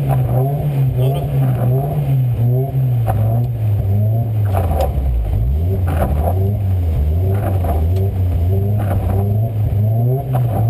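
Škoda Fabia rally car's 1.4-litre four-cylinder engine running at raised revs while the car stands still, heard from inside the cabin. The revs rise and fall gently every second or so as the throttle is held and worked.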